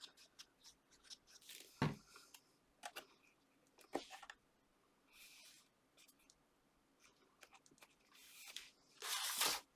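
Card and paper being handled on a craft table: scattered light taps and clicks, a soft thump about two seconds in, and a louder rustle near the end.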